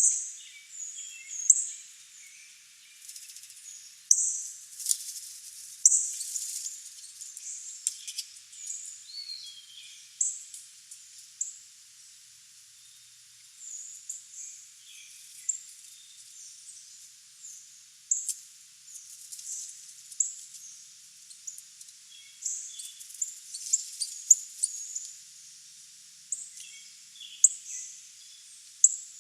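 Wild birds chirping: many short, high chirps come at irregular intervals, with a few louder ones about four and six seconds in.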